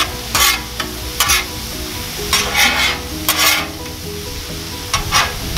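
Metal spatula scraping and turning eggs and vegetables on a Blackstone flat-top steel griddle, in several short scrapes over a steady sizzle of food frying.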